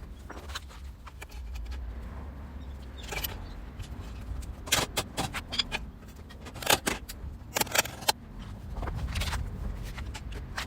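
Irregular metallic clinks and knocks of hand tools and metal parts being handled, with a steady low rumble underneath.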